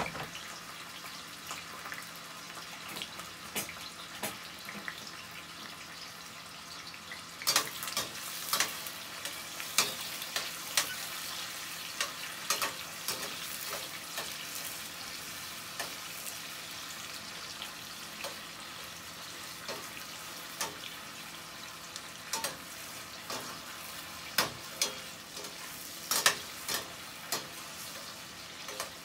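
Onions and seasonings sizzling steadily in hot oil. From about seven seconds in, a utensil knocks and scrapes against the pan again and again as they are stirred.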